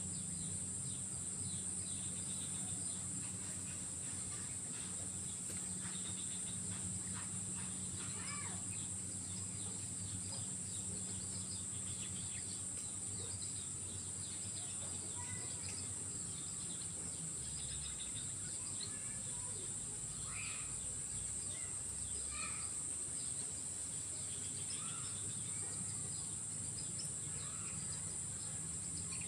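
Swamp insects giving one steady, high-pitched drone, with scattered short bird chirps over it and a low steady hum underneath.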